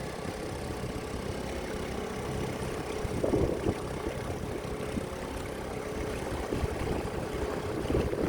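Dinghy outboard motor running steadily at low speed, a low hum with a brief louder swell about three seconds in and again near the end.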